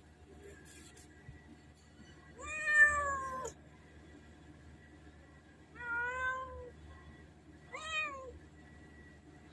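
Domestic cat meowing three times, a few seconds apart. The first meow is the longest and loudest.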